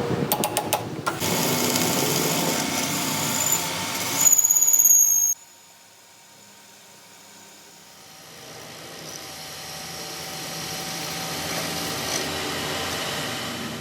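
Metalworking power tool running, with a few sharp clicks near the start and a high squeal that cuts off abruptly about five seconds in. A quieter steady machine sound then grows louder.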